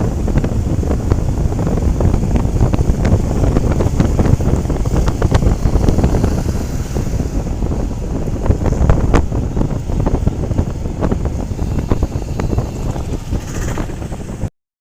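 Heavy wind noise buffeting the microphone on a moving motorcycle, with road rumble and scattered knocks beneath. It cuts off suddenly near the end.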